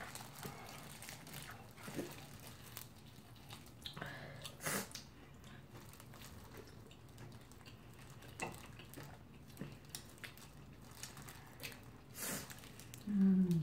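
Fried chicken being eaten: scattered soft crunches, smacks and small clicks of chewing and handling the chicken. Near the end a short hummed voice sound falls in pitch.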